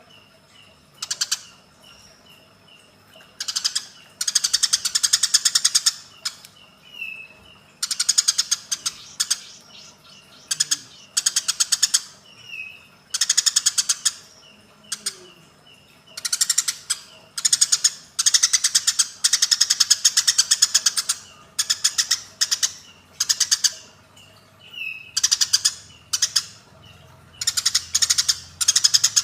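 Eurasian tree sparrows' fighting calls: bouts of rapid, harsh chattering one to two seconds long, repeated again and again, with short single chirps between the bouts.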